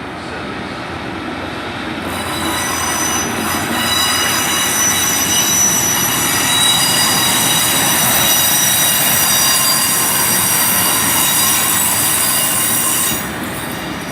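Diesel passenger train departing a station, its wheels squealing on the rails with several steady high-pitched tones over the rumble. The squeal comes in about two seconds in, grows louder, and drops away suddenly near the end.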